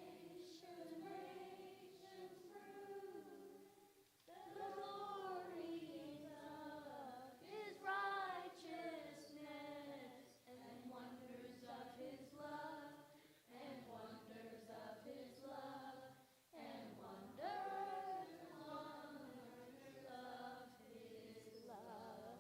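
A group of voices singing together, seemingly unaccompanied, in phrases with short breaks between them.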